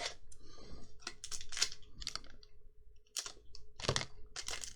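Magic: The Gathering trading cards being handled: a run of short crisp rustles and clicks as cards are flicked through and slid against one another, with a faint steady hum underneath.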